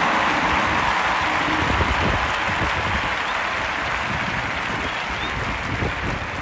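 Electric passenger train moving through the station, a steady rushing noise that slowly fades away.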